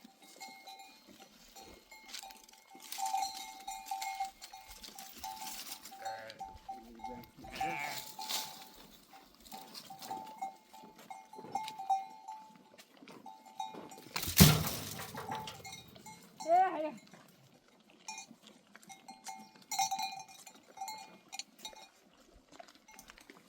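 Bells worn by grazing sheep and goats clinking on and off, with a single bleat a little past two-thirds of the way through. A sharp knock just past the middle is the loudest sound.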